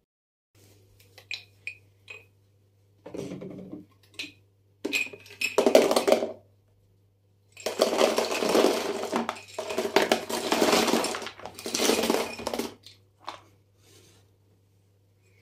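Kitchen containers clinking, then several rushes of small hard pieces rattling into a container, the longest lasting about five seconds, like dry food being poured into a storage jar.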